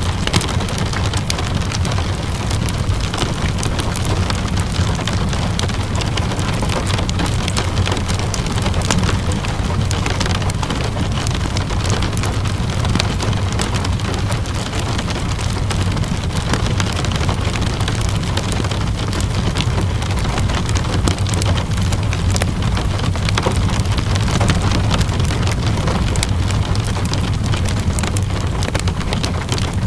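Steady rain mixed with a crackling wood fire: an even hiss of rainfall with frequent small pops and ticks over a low steady rumble.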